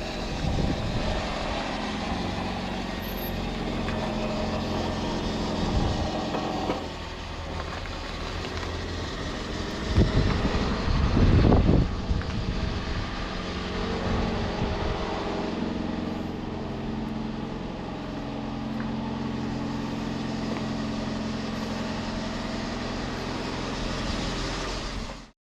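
Motor vehicle engine running steadily, with a louder rushing surge about ten seconds in. The sound cuts off abruptly near the end.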